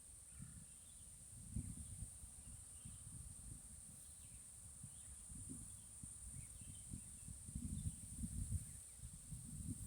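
Outdoor nature ambience: a steady, high-pitched insect drone with faint, scattered bird chirps over it. A gusty low rumble of wind on the microphone comes and goes, getting stronger in the second half.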